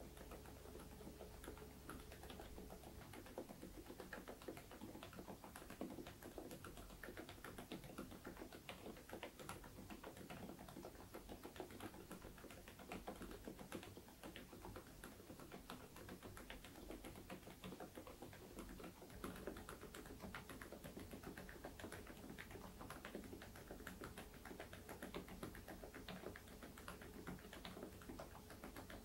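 Continuous typing on a full-size mechanical keyboard fitted with Outemu Peach V3 silent switches, making a quiet, dense stream of keystrokes.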